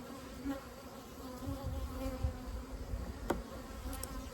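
Honeybees buzzing in a wavering hum, with a single sharp click about three seconds in.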